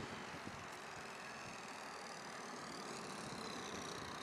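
Thin high whine of a radio-control model plane's small electric 370 motor and propeller, faint and drifting slowly in pitch as it flies its landing approach, over a steady hiss of wind. A short knock at the very start.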